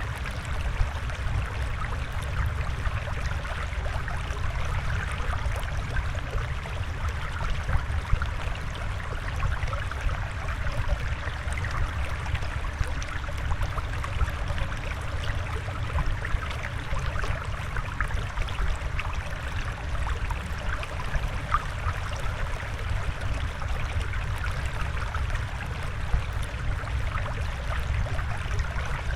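Steady flowing water, trickling, with many small splashes scattered through it.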